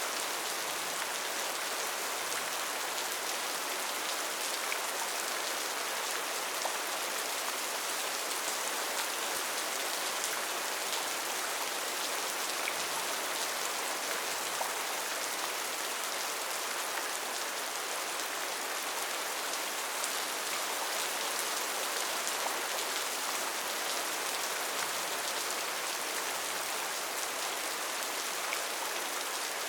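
Steady rain falling on foliage in a rainforest, a dense even hiss with faint scattered drop ticks.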